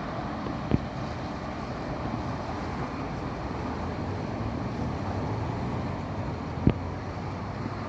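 Freight train rolling past in a steady rumble with a low hum, and two sharp knocks, one about a second in and one near the end.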